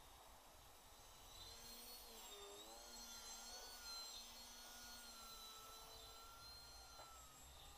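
Faint whine of an FPV quadcopter's electric motors, wavering up and down in pitch as the throttle changes, over a low rumble of wind.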